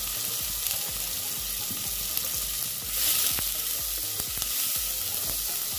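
Chopped tomatoes and spices sizzling in hot oil in a pressure cooker, stirred with a wooden spatula that scrapes the bottom of the pot. The sizzle swells briefly about three seconds in.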